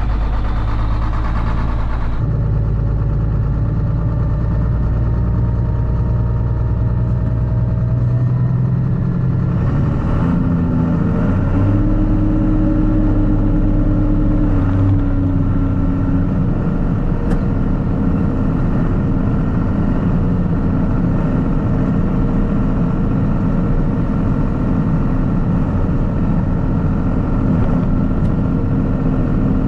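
Farm tractor engine running steadily while driving, heard from inside the cab. Its note shifts up about ten seconds in and settles back a few seconds later.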